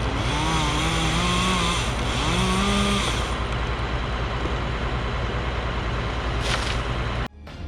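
Heavy truck diesel engine running steadily, with a wavering, rising tone over it for the first few seconds. The sound cuts off suddenly near the end.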